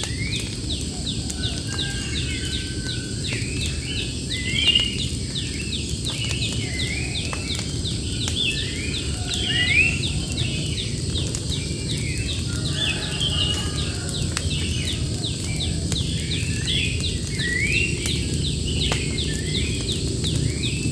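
Birds singing: short rising notes repeated every second or so, over a fast, steady high ticking and a steady low rumble.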